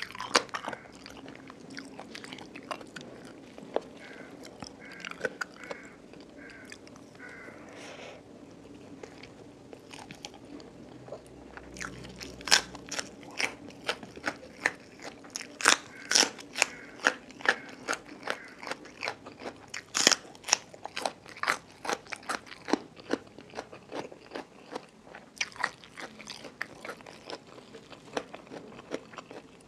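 Close-miked eating: a person chewing with moist mouth sounds and sharp, crisp crunches. The crunches are sparse and soft at first, come thick and loud from about a third of the way in, and ease off near the end.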